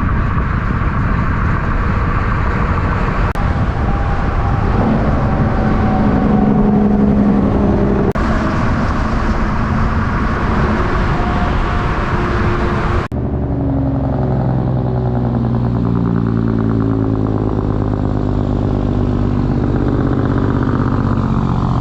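Diesel semi trucks driving past, engine and road noise in several short clips joined by abrupt cuts. In the last clip, a steady engine note falls in pitch near the end.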